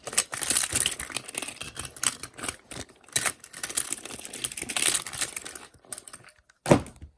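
Plastic toys being knocked together and handled: a dense, irregular run of clicks, rattles and crinkles, with one sharper knock near the end.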